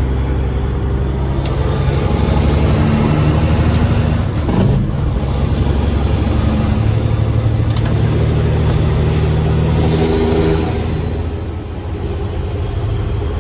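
Peterbilt semi-truck's diesel engine pulling under load, with a high whine that rises and falls with the revs. The engine note breaks briefly about five seconds in and dips again near the end.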